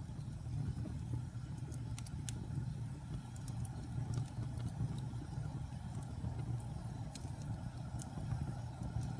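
Wood fire burning in a fireplace: a steady low rumble with scattered sharp crackles and pops from the burning wood.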